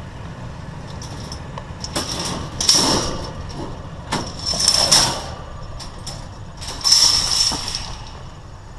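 Scrap metal being handled, with three scraping bursts about two seconds apart, each carrying a high metallic ring, plus scattered clicks and knocks.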